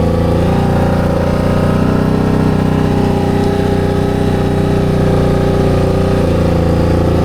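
CFMOTO CForce 1000 ATV's V-twin engine running under way as the quad is ridden, its note steady after rising a little in the first second or two.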